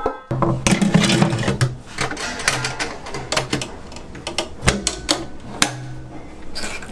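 Irregular clattering and clicking of handled objects, with a low hum that comes and goes.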